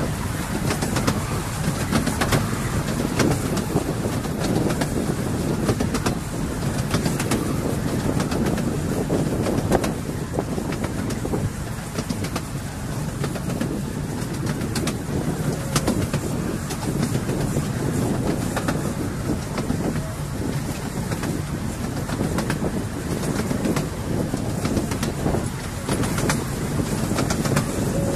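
Miniature railway train running along the track, a steady rumbling ride noise with frequent sharp clicks from the wheels on the rails.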